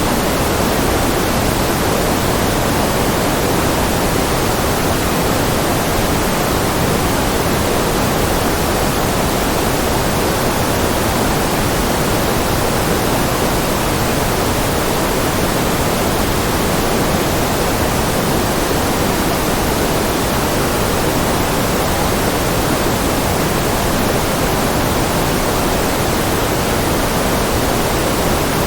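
Continuous generated white-noise track: an even, unchanging hiss, slightly fuller in the lower middle range.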